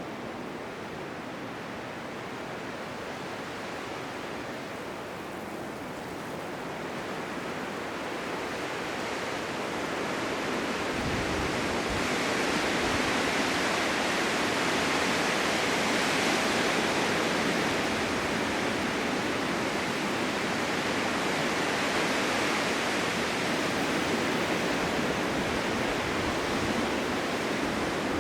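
Blizzard wind blowing as a steady rushing hiss that swells into a stronger gust over the first half and stays strong.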